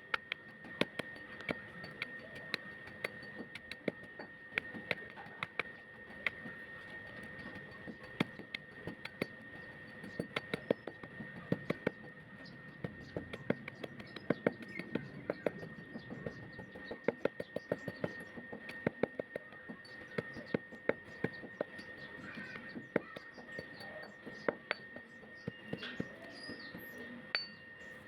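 Clay pot being crushed: a dense, irregular run of sharp cracks and crunches, several a second, over a faint steady high-pitched tone.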